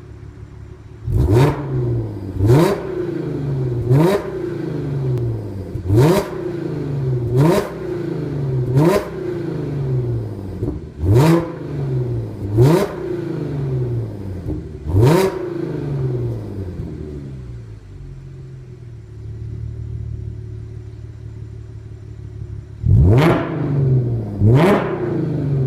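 Audi S5 exhaust as the engine is blipped repeatedly: about nine quick throttle revs, each rising sharply and falling back to idle, then a steady idle for several seconds, then a few more quick revs near the end.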